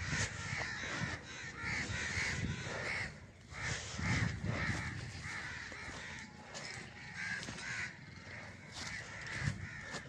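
Birds in a tree calling over and over, short harsh calls coming about two or three a second in two runs, with a break about three seconds in.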